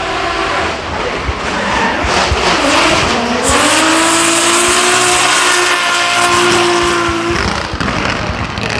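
Racing car engine at high revs with its tyres squealing in a slide. The engine note dips briefly, then climbs and holds steady for about four seconds before fading.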